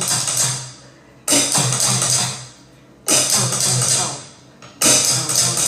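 Drum beat in which the steady groove drops out for three loud crash hits about a second and a half apart, each ringing out and fading. The groove comes back in near the end.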